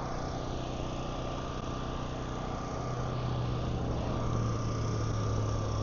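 An engine running steadily, its low hum growing louder about three seconds in.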